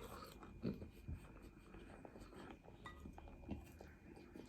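Quiet eating sounds: a few soft clicks, the loudest about a second in, and small mouth noises.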